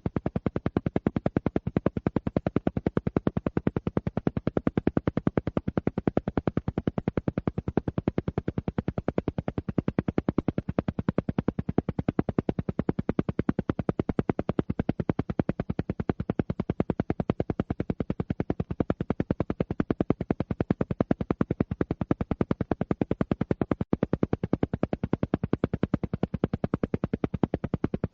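Alpha-wave isochronic pulses for brainwave entrainment: a rapid, perfectly even train of short pulses that keeps going without a break.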